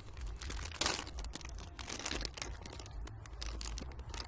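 A packaged cookie's wrapper being torn open and crinkled, a run of quick crackles throughout.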